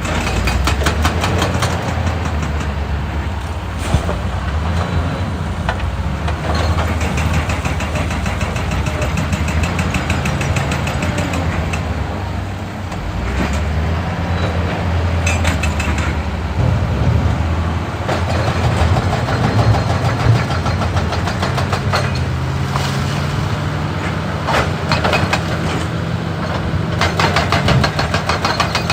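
Excavator's diesel engine running steadily under load, with a hydraulic breaker hammering rock in spells of rapid, evenly spaced blows, several times through.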